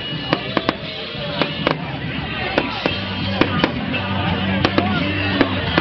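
Fireworks going off in an irregular run of sharp bangs and crackles, with music and crowd voices underneath; the music's low notes come up about halfway through.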